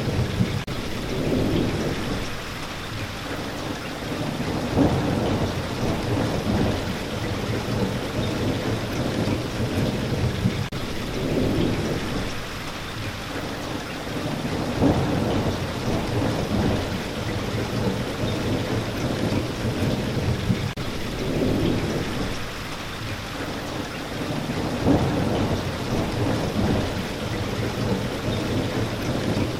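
Steady rain hissing, with low rolling thunder rumbles that swell and fade every few seconds.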